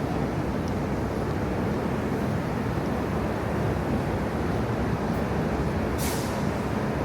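Steady city street traffic rumble, with a short hiss about six seconds in.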